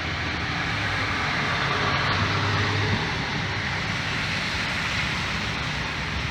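Road traffic noise: a steady low engine hum under the hiss of tyres on a wet road, swelling a little about two seconds in and then easing.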